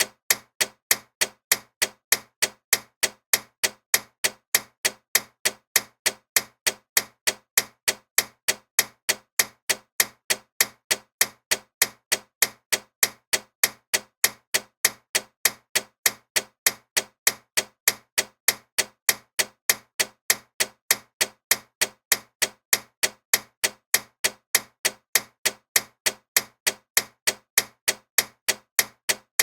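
Loud ticking clock: rapid, evenly spaced sharp ticks, about three a second, with no tock between them.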